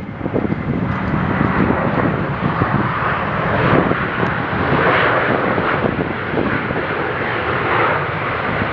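Boeing 737-800 jet airliner's CFM56 turbofan engines running with a steady rushing noise as the plane lands or taxis.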